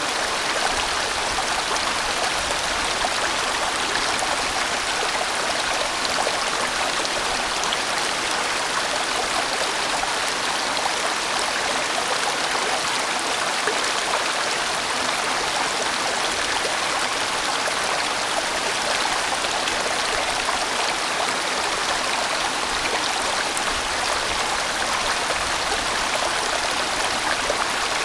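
A large mountain stream rushing and splashing over rocks, steady and continuous.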